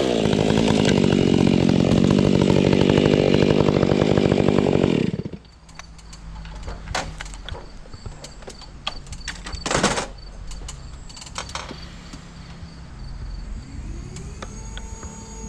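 Gas chainsaw running at full throttle as it cuts through the dead tree's wood, then cutting out sharply about five seconds in. After that come scattered cracks and knocks, the loudest about ten seconds in.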